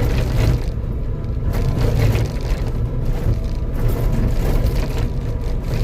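Skid steer's diesel engine running steadily under load, with a few short cracks of wood and brush breaking.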